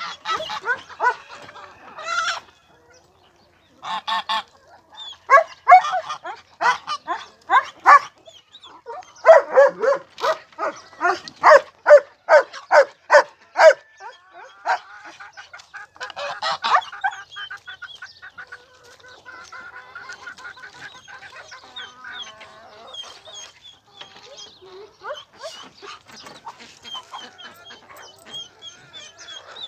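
Farmyard fowl calling in loud runs of repeated calls, about two a second, quickening between about ten and fourteen seconds in. In the second half the calling turns to quieter mixed chatter.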